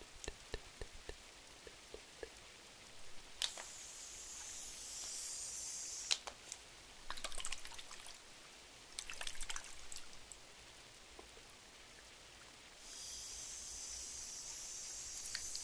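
Rain-and-fireplace ambience: dripping rain with scattered small clicks and crackles, and two busier bursts of crackling in the middle. A high hiss comes in for a couple of seconds about four seconds in, then again near the end.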